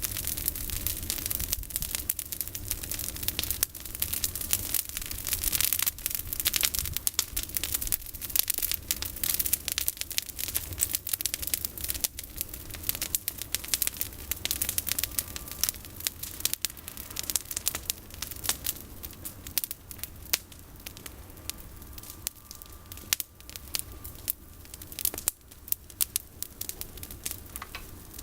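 Campfire of olive branches burning, with dense irregular crackling and popping that thins out somewhat in the second half.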